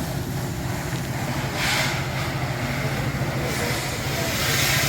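Pressure washer running with a steady low hum, its water jet hissing in two spells, about two seconds in and again near the end.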